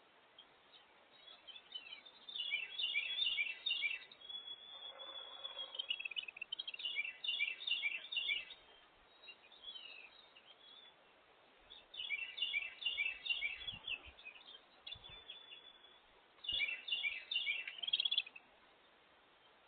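A songbird singing: four short phrases of quick repeated notes, a few seconds apart, with a brief steady whistled note between the first two.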